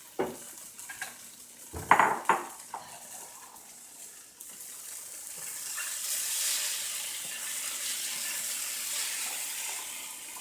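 Tofu frying in a pan: a few sharp knocks of utensil and pan in the first seconds, then a steady sizzle from about four seconds in that swells around six seconds.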